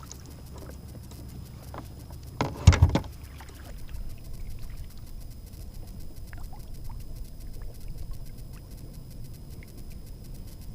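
A quick cluster of loud knocks and scrapes about two and a half seconds in, then faint scattered ticks and scratches from handling in a fishing kayak, over a steady low rumble of water and wind.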